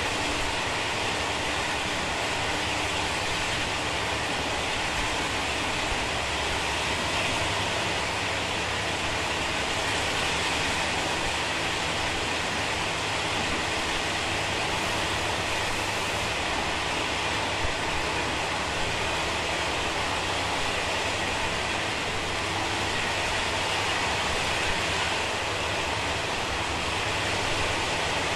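Steady rumble and rush of wheels on rail heard from inside a Taiwan Railway SPK32717 ordinary passenger car running on the South-Link Line while the train gathers speed.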